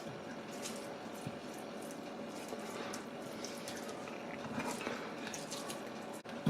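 Hands rubbing a spice rub mixture into raw chicken leg-and-thigh pieces, a run of irregular soft rubbing sounds.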